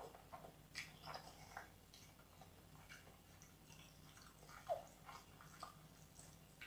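Faint close-up eating sounds: a person chewing a mouthful of biryani, with scattered wet mouth clicks and smacks, one louder smack a little past the middle, over a faint steady low hum.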